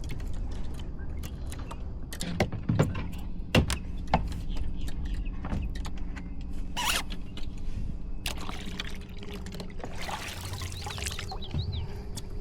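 Knocks and clatter of a fish measuring board and gear being handled on a fishing kayak, with a few sharp knocks in the first few seconds. Water splashing and trickling follows for a few seconds near the end, over a steady low rumble.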